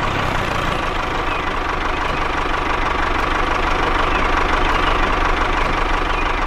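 Tractor engine sound effect: a diesel idling steadily with a fast, even chug.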